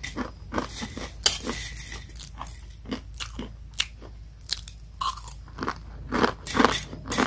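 Close crunching and chewing of crispy dry-fried instant noodles, in quick irregular bites.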